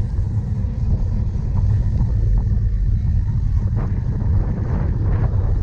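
Steady low rumble of a cyclocross bike being ridden over rough ground, with wind on the microphone, and a few faint rattles near the end.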